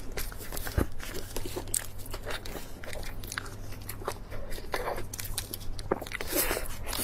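Close-miked mouth sounds of a person biting and chewing food, with many short, irregular clicks.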